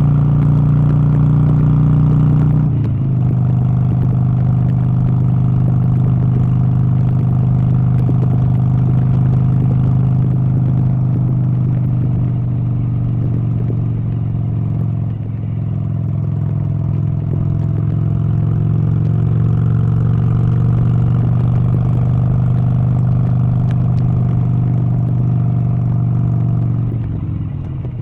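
An engine running steadily, dropping slightly in pitch about three seconds in and falling away near the end.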